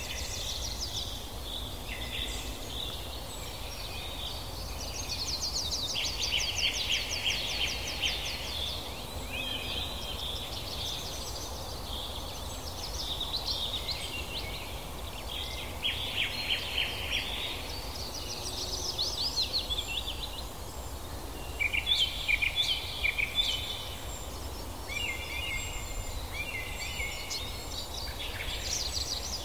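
Several birds calling and singing: rapid trills and repeated chirps come and go throughout, over a steady low background rumble.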